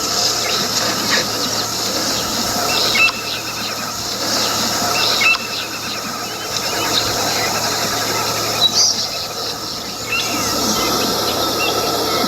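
Outdoor wildlife ambience: birds give short, high chirps every second or two over a steady insect drone.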